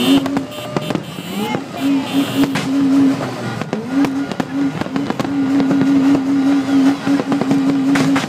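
Fireworks display: repeated bangs and crackling of bursting shells, with a steady low horn tone sounding on and off over them.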